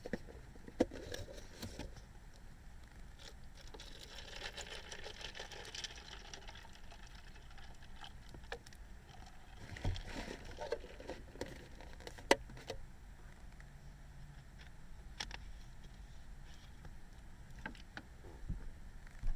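Faint handling noise: scattered light clicks and knocks, with a stretch of rustling a few seconds in and a sharper knock about twelve seconds in.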